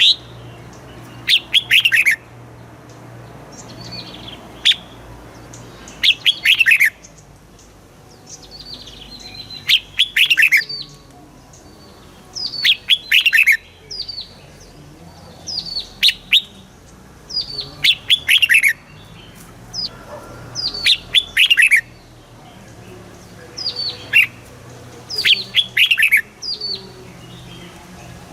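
Red-whiskered bulbul singing: short, bright phrases of quick falling notes, repeated every two to three seconds, over a faint low hum.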